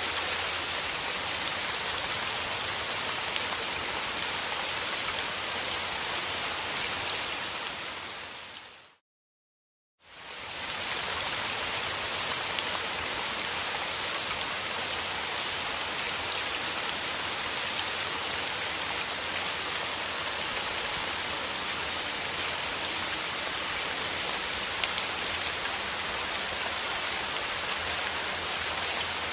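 Steady rain falling, a dense even hiss dotted with fine drop ticks. About nine seconds in it fades out to silence for about a second, then fades back in.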